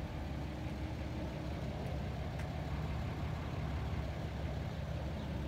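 1955 Chevrolet's engine idling steadily through its dual exhaust with Flowmaster mufflers, a low, even rumble.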